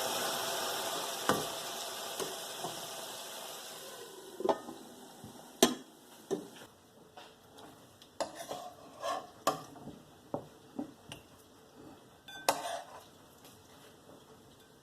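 Aloo gobi sizzling in an oiled pan, the hiss dying away over the first few seconds once the heat is off. Then a spoon scrapes and clinks against the pan a dozen or so times.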